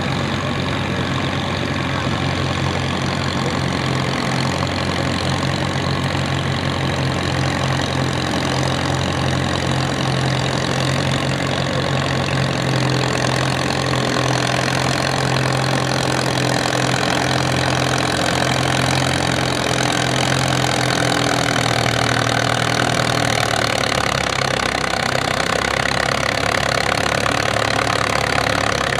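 1942 Farmall M's four-cylinder gasoline engine running hard and steady under load while pulling the weight sled; its note drops near the end as the pull finishes.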